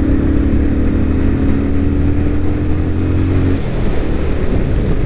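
Motorcycle engine running at a steady road speed under rushing wind and road noise. The engine note drops out about three and a half seconds in, leaving only the wind noise.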